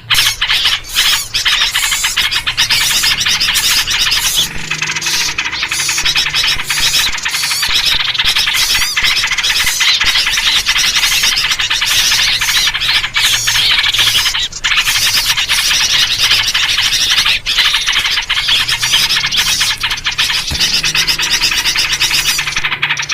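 A dense, continuous chorus of many small birds chattering and calling over each other, a noisy bird-lure recording made around yellow-vented bulbul (trucuk) calls.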